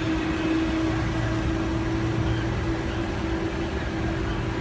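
Parking tram running: a steady low rumble with a constant hum over it.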